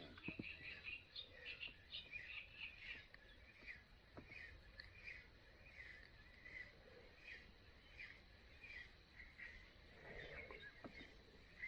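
Faint bird chirping, short calls repeating again and again, with a few soft clicks.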